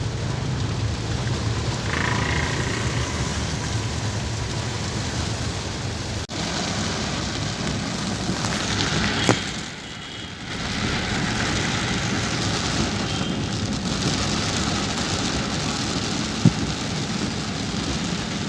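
Rain falling on a moving car, a steady hiss of rain and road noise, dropping away for about a second midway through before coming back.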